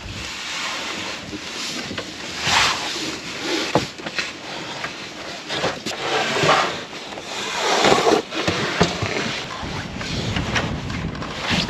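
Strong snowstorm wind blowing in gusts, buffeting the microphone, with a few light clicks and knocks.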